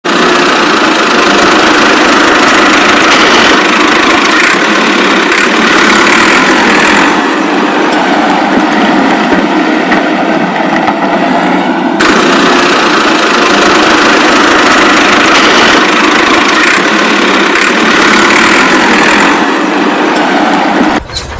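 A motor running steadily, with an engine-like noise that changes abruptly about 7 and 12 seconds in, and a brief drop just before the end.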